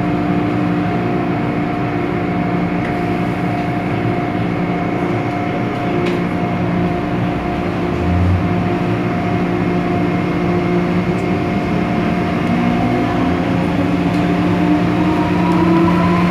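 MTR Tsuen Wan Line M-Train running along the line, a steady rumble of wheels on rail with a constant whine from its motors; near the end the whine climbs in pitch as the train gathers speed.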